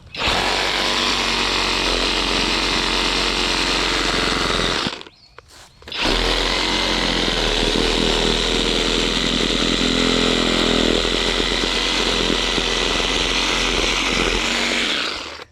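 Skil cordless reciprocating saw cutting through a thick tree branch. It runs steadily for about five seconds, stops for a second, then runs again for about nine seconds until the cut is through.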